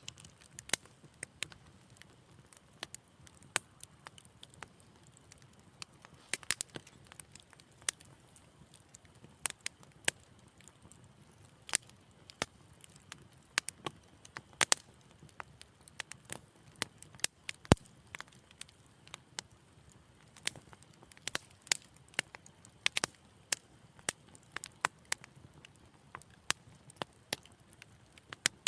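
Wood fire crackling in a fireplace: gentle, irregular pops and snaps over a soft low rumble, with one sharper pop about two thirds of the way through.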